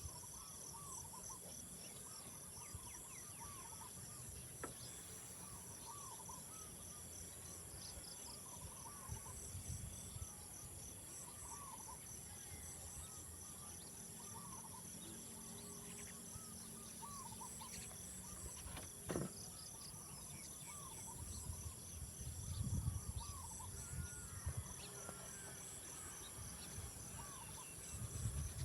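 Insects and crickets singing: a steady high whine with rapid pulsed chirping over it. A short chirping call repeats every second or two, and a low rumble comes and goes in the last third.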